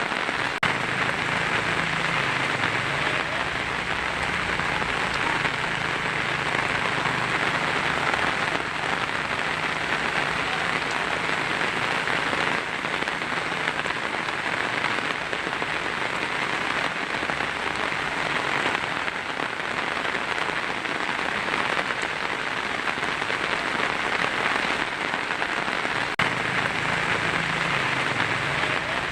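Heavy rain drumming steadily on a tin roof: a dense, even patter with no thunder.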